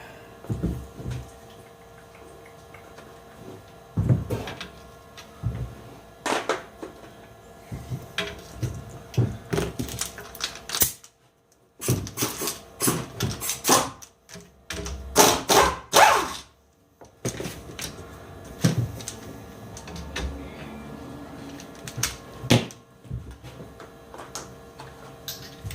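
Irregular clicks, clanks and knocks of hand tools and metal parts being handled while a leaf spring pack is taken apart. The sound drops out briefly twice, about eleven and sixteen seconds in.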